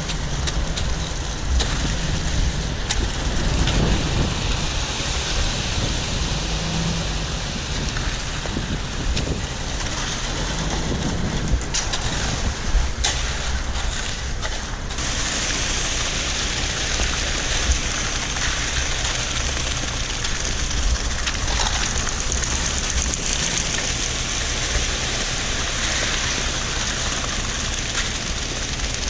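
Wind buffeting the microphone over the steady drone of a concrete truck's engine. The windy hiss grows stronger about halfway through.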